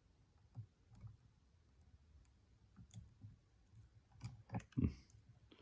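Faint, scattered metallic clicks and ticks of a lock pick working the pins of a Stanley padlock, coming more often and louder about four to five seconds in.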